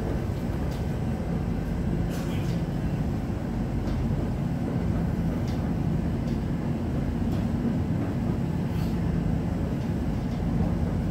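London Overground Class 710 electric train running between stations, heard from inside the carriage: a steady rumble with a low hum and a few faint clicks from the track or carriage.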